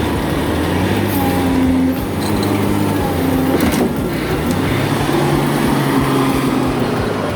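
Heavy truck engine running under way, its pitch stepping up and down.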